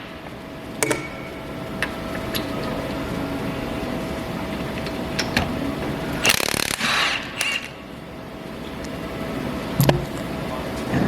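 Tools clicking and clinking on metal over a steady faint hum, with one short, loud burst of noise about six and a half seconds in.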